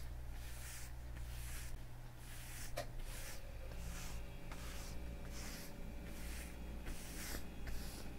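Gloved hands in leather gloves rubbing and stroking, a repeated swishing rub a little under a second apart, with one sharp click about three seconds in.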